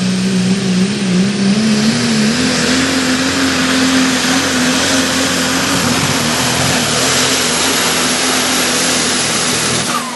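Pulling truck's engine running at high revs under load on a truck pull run, over heavy exhaust and tyre noise. Its pitch wavers, climbs a little about two seconds in, then holds steady before the sound stops abruptly near the end.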